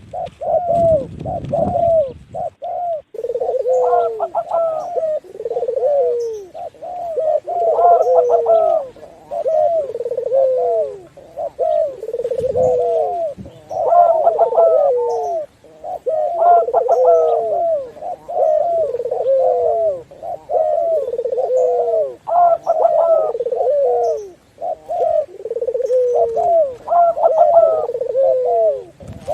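Doves cooing in repeated, overlapping phrases, one about every second or two: a mix of zebra dove, spotted dove and Barbary dove calls. A low rumble sits under the cooing near the start.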